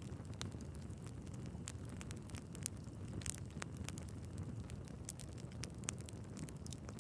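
Wood fire burning in a fireplace: a steady low rumble of flames with irregular sharp crackles and pops from the logs, one louder pop a little under three seconds in.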